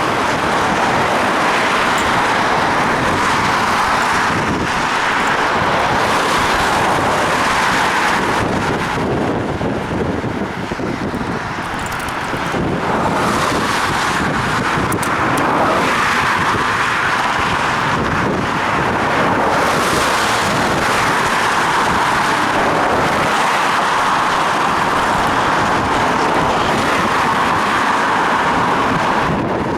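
Steady noise of riding a bicycle on a rainy street: wind on a head-mounted camera's microphone mixed with road and traffic noise. It eases off briefly about a third of the way through.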